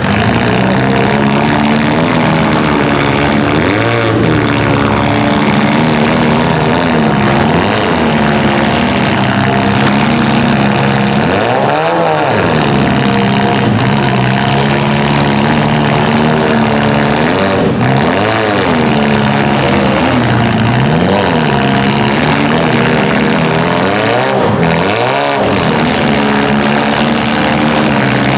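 Compact demolition-derby car engines revving hard over and over, each rev climbing and falling back, under a constant loud engine noise.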